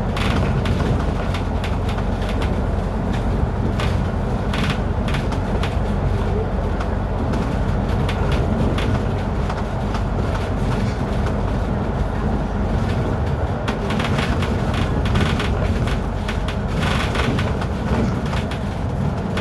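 Steady low rumble of a vehicle travelling, with short bursts of hiss now and then.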